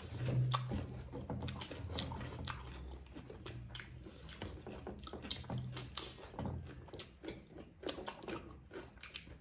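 Close-up eating sounds: wet chewing and lip smacks from people eating rice, greens and pork by hand from metal plates, a steady string of small sharp clicks and smacks.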